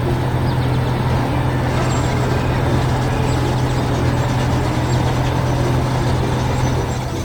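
Heavy vehicle engine running steadily with a deep hum, easing off slightly near the end.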